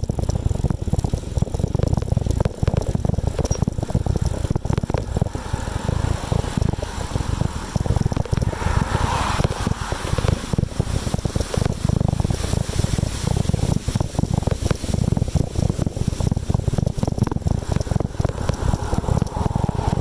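Wind buffeting the microphone of a moving bicycle, a dense, fluttering low rumble with bike and road rattle, and a short swell of hiss near the middle.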